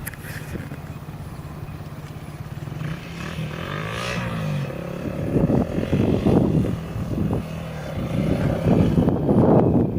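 Motorcycle engine running, a steady low note whose pitch bends about four seconds in, then growing louder and rougher from about five seconds in.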